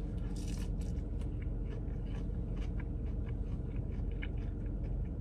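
Biting into a battered, deep-fried baby portabella mushroom and chewing it close to the microphone. A bite near the start, then scattered small crunches of the fried batter.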